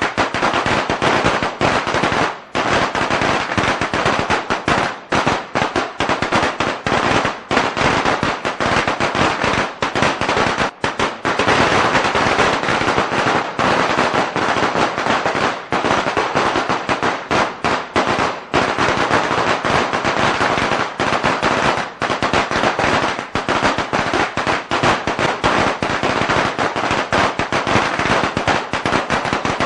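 A string of Chinese firecrackers (biānpào) going off in a rapid, unbroken crackle of many small sharp bangs.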